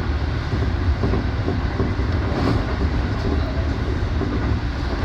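Keikyu electric train running on the line, heard from the front of the train: a steady low rumble of wheels on the rails and running gear.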